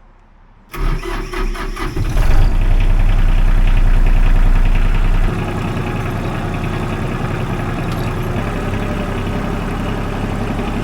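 Ford 1520 tractor's diesel engine running. After a brief quiet it comes in under a second in and runs louder for about three seconds, then settles to a steady, slightly lower running speed.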